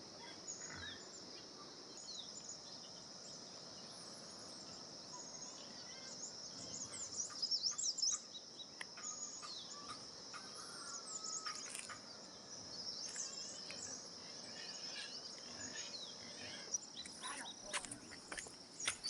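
Steady high-pitched drone of insects such as crickets, with short bird chirps over it, the busiest about a third of the way in and again past the middle.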